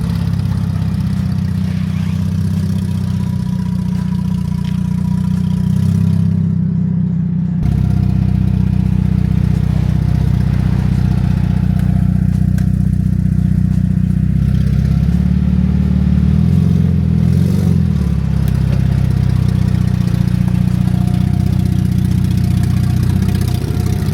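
Twin-turbo Genesis G70's engine running steadily at low revs.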